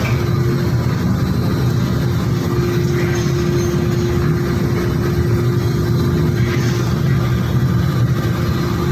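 Steady machinery drone with a constant hum, running unchanged throughout.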